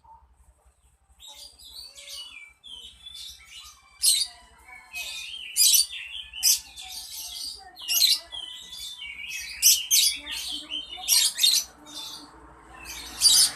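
Songbird singing a melodious, varied song of quick high chirps and trilled phrases. It starts after a near-quiet first second, and short loud phrases come every second or so.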